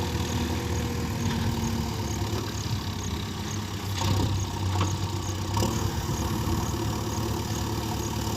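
Heavy diesel engine of a tractor or JCB machine running steadily at idle, with a couple of short knocks about four and five and a half seconds in.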